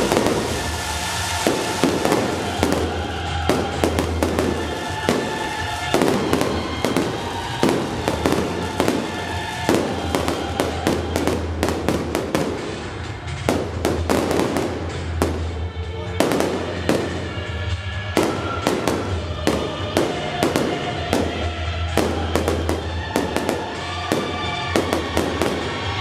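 Fireworks display going off continuously: a dense, irregular run of bangs and crackles from aerial shell bursts and fountains, over background music.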